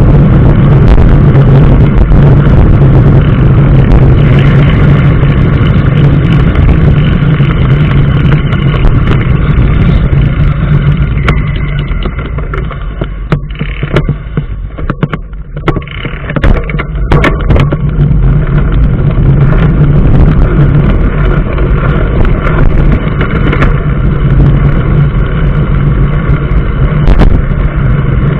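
Motor vehicle driving on a road: a loud, steady drone of engine and road noise that eases off for a few seconds around the middle, then builds back up.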